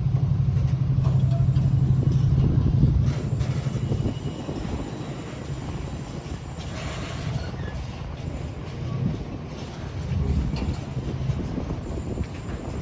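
A train on the main line: a steady low drone that fades about four seconds in, leaving a quieter rumble of the train on the rails.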